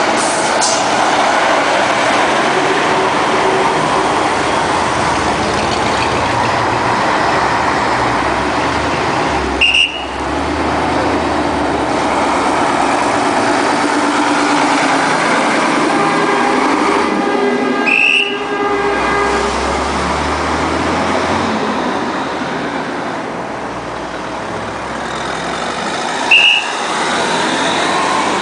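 Heavy classic trucks' diesel engines running steadily as they drive past in a line. Short high-pitched toots sound three times, about ten, eighteen and twenty-six seconds in.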